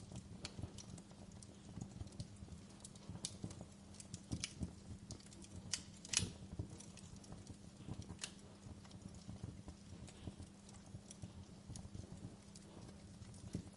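Wood fire in a fireplace crackling, with irregular snaps and pops and one louder pop about six seconds in, over a low steady background.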